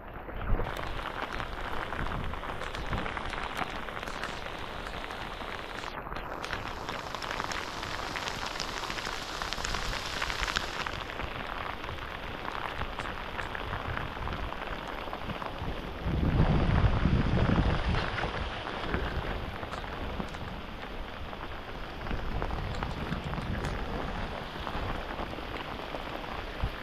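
Heavy monsoon rain falling steadily, with a louder, deeper stretch of noise lasting about two seconds, some sixteen seconds in.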